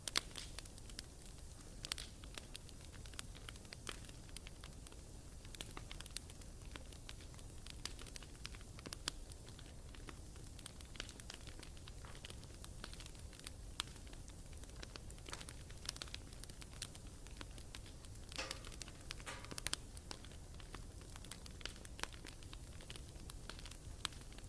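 Wood bonfire crackling: irregular sharp pops and snaps over a steady low hum, with a brief denser run of crackles about three-quarters of the way in.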